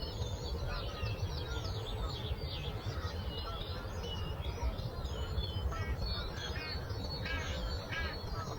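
Many songbirds chirping and singing together in a dense morning chorus, over a steady low rumble of breeze. From about two-thirds of the way in, one bird repeats a louder call several times.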